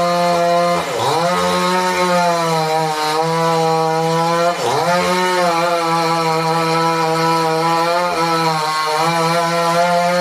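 Two-stroke chainsaw running at high revs while cutting wood. Its engine pitch drops sharply and recovers twice, about a second in and again near the middle.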